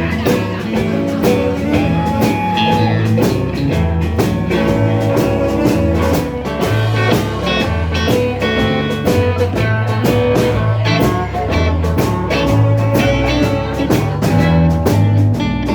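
Live blues band playing an instrumental passage: electric guitar lead with held, bending notes over bass and drums keeping a steady beat.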